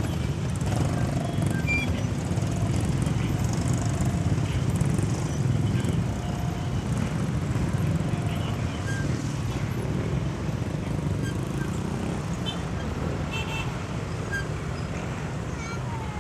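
Motorcycle riding noise: steady wind rush on the microphone over the motorcycle's running engine and surrounding road traffic, with a few brief faint tones like distant horns.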